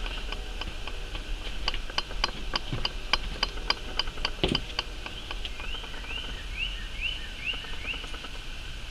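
A songbird calling: first a long run of quick, evenly spaced chipping notes, three or four a second. From about halfway through it changes to a series of short rising whistles.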